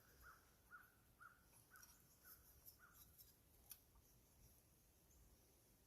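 Near silence, with a faint bird calling in short repeated notes about twice a second, stopping about three seconds in, and a few light clicks.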